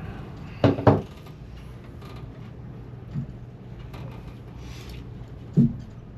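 Hand tools knocking against metal engine fittings during tightening work: two sharp knocks close together a little under a second in, a lighter one about three seconds in, and another sharp knock near the end, over a steady low hum.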